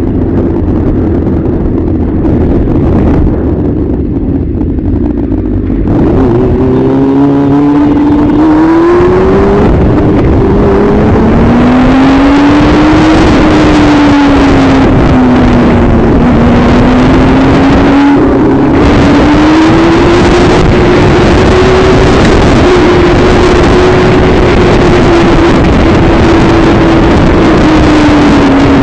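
Vehicle engine and road noise, the engine's pitch rising and falling with speed. The sound changes character abruptly about six seconds in and is louder from there on.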